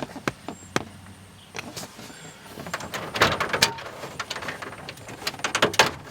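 Plastic dash trim panel on a Chevy pickup being pulled off by hand: a run of sharp clicks and creaks as its retaining clips pop loose, with plastic scraping and rubbing in between.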